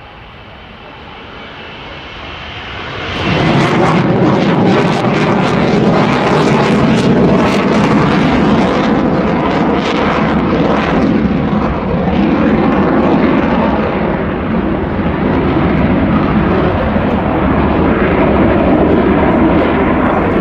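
F-35B Lightning II's jet engine, its noise climbing sharply about three seconds in and then holding loud and steady, with a crackle of sharp pops through the following several seconds.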